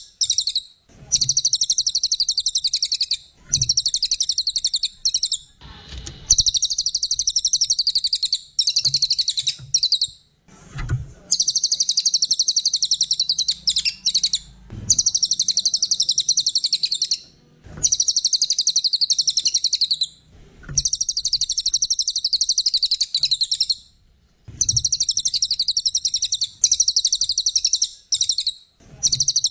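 A cililin songbird singing in fast, high-pitched chattering trills, delivered in about ten bursts of one to three seconds each with short pauses between them.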